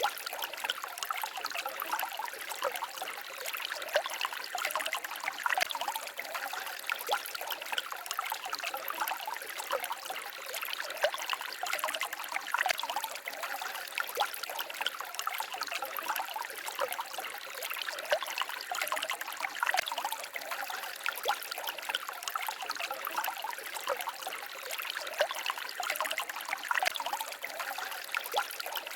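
Small forest stream babbling and trickling over rocks: a steady splashing of water with many small quick splashes and no deep rush.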